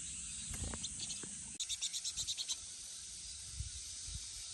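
A bird gives a rapid chattering call, about nine sharp high notes in a second, with a few faint chirps just before it, over a steady high insect hiss.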